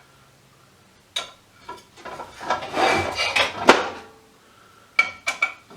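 Loose metal Allen keys clinking and rattling as they are rummaged through, busiest in the middle, with a sharp click just before the four-second mark and three quick clicks near the end.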